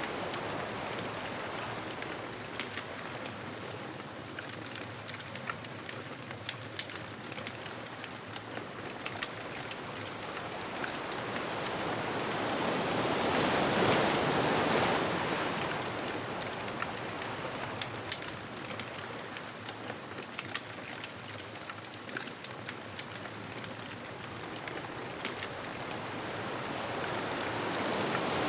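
Ocean waves washing onto a beach, one surge swelling and fading about halfway through, with many small sharp crackles from a bonfire over the steady wash.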